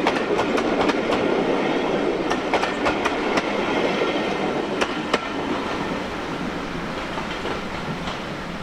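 Passenger coaches running past on jointed track, their wheels clicking over the rail joints. The clicks die out about five seconds in and the rumble fades as the train draws away.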